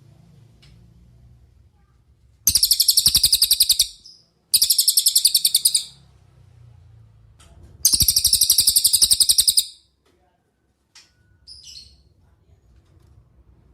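Cililin (velvet-fronted nuthatch) singing three loud, fast, high-pitched trills of about nine notes a second, each about a second and a half long, followed by a few faint short notes.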